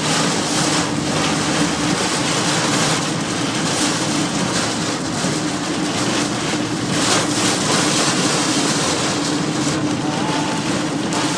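Heavy rain pounding on a vehicle's roof and windshield, heard from inside, with a steady hum underneath.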